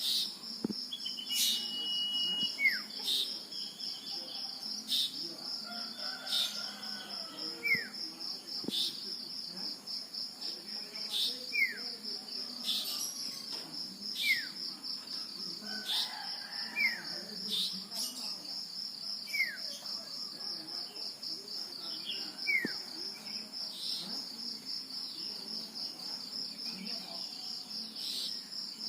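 Male common iora (cipoh, called sirtu) calling: short, downward-sliding whistled notes repeated every two to three seconds, over a steady, pulsing cricket chorus.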